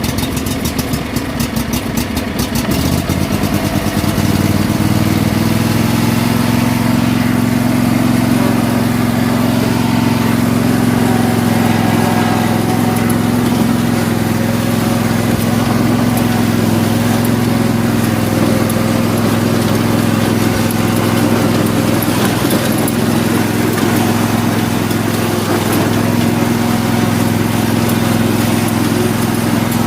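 Old riding lawn mower's engine started on the key with the choke out: uneven for about the first three seconds, then catching and settling into steady running.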